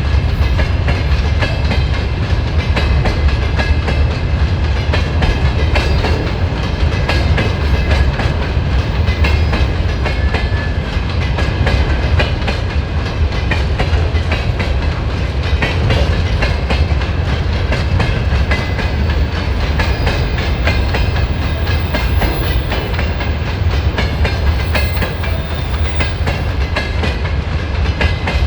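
Freight train rolling by steadily, its wheels clattering continuously over the rail joints with a deep rumble underneath.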